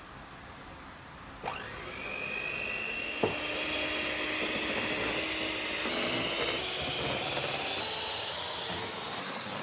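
A small electric motor switched on with a click, spinning up with a whine that rises quickly and then keeps climbing slowly, with a single knock a couple of seconds later.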